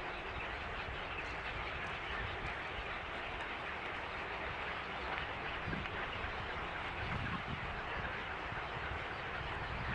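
A steady, dense din of many birds calling at once, as in a crowded waterbird colony, with an irregular low rumble underneath.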